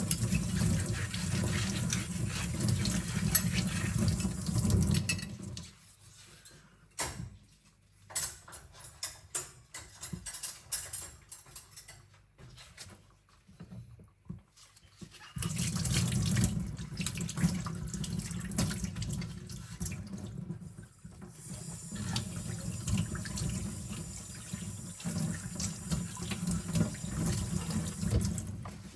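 Kitchen sink tap running while cutlery is rinsed, then shut off. Several seconds of sharp clinks as cutlery and dishes are handled, then the tap runs steadily again from about halfway.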